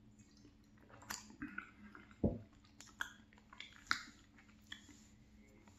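Close-miked chewing of flaky pastry crust: scattered crisp crackles and soft mouth sounds, with one dull low thump about two seconds in.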